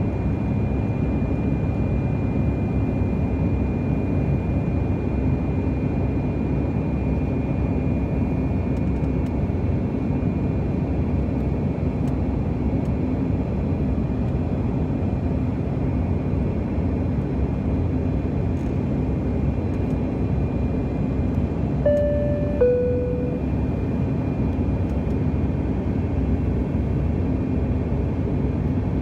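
Airliner cabin noise in flight, a steady rush from the engines and airflow. About 22 seconds in, the cabin chime sounds once, two notes, high then low.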